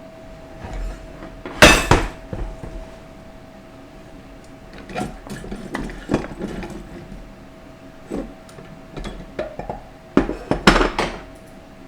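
Metal parts of a 4L60E automatic transmission clanking and clinking as it is taken apart by hand: several clusters of knocks, the loudest about two seconds in and near the end, over a faint steady hum.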